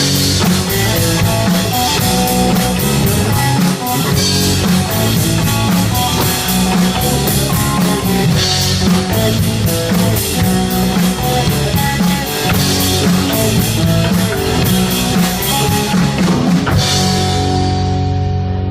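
Live rock band playing an instrumental passage: a drum kit with steady cymbal strikes over electric guitar and bass. Near the end the cymbals stop and a held chord rings on.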